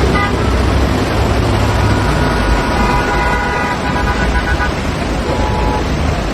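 Street traffic with car horns honking over a constant rushing noise: a short honk at the start, a long one from about two seconds in to nearly five, and another brief one near the end.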